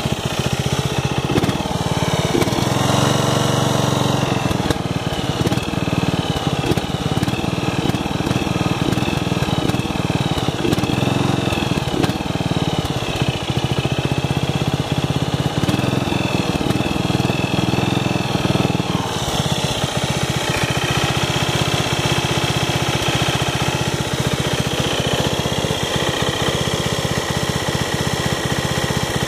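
Craftsman off-roader riding mower engine running steadily shortly after a cold start, its note shifting about two-thirds of the way through.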